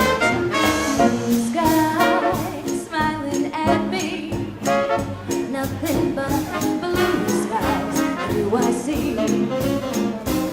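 Live swing band playing classic 1940s-style swing, with horns over a steady beat.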